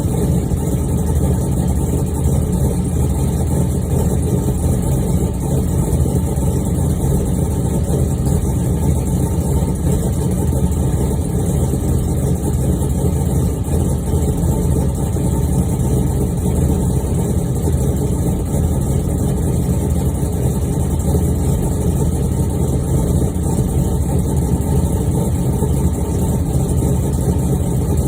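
1999 Chevrolet Camaro Z28's 5.7-litre LS1 V8 idling steadily while still warming up after a cold start.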